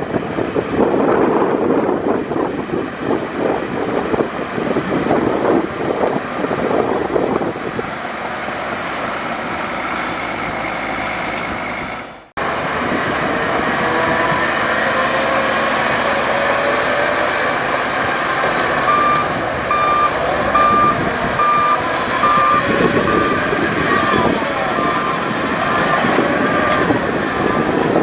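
Heavy diesel earthmoving machines running. For the first twelve seconds there is a coarse engine and clatter noise. After a sudden cut, an engine runs with a steady whine, and in the second half a reversing alarm beeps about once a second.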